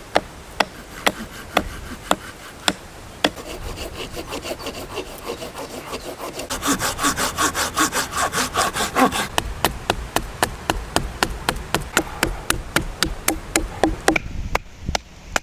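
Hand saw cutting through a branch of wood in regular strokes: about two strokes a second at first, quickening to about three a second from around six seconds in.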